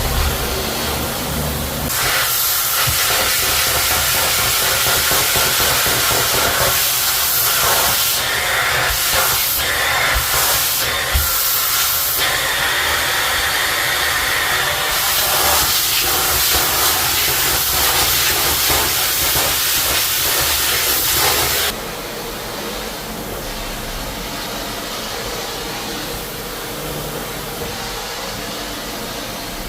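Loud, steady hiss of a pressurised water spray, as from a tile-cleaning spray tool, running for about twenty seconds and then cut off suddenly. Under it a steady machine hum goes on.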